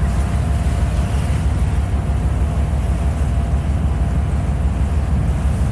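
Passenger ferry under way: a steady, unbroken drone from the engine, with a faint steady hum, under a heavy low rumble of wind on the microphone.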